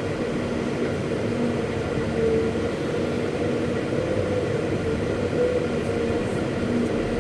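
Caterpillar 329E hydraulic excavator running steadily, with a faint whine that comes and goes over the engine noise.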